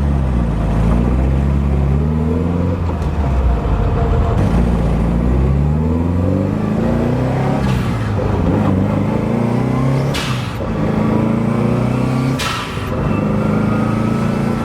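Car engine heard from inside the cabin, pulling away and climbing in pitch through a run of gear changes, each rise dropping back as the next gear engages. Two short knocks come near the end.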